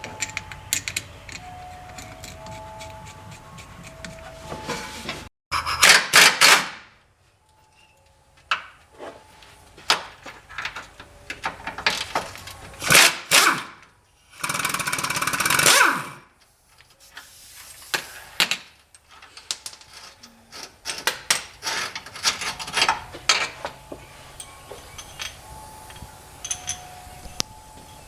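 A power tool run in short bursts, with a longer burst of about two seconds near the middle, among clinks and knocks of hand tools and metal parts.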